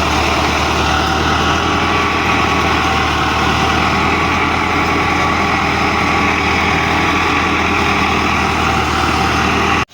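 Tractor diesel engine running steadily, a constant low engine note with even harmonics; it breaks off sharply right at the end.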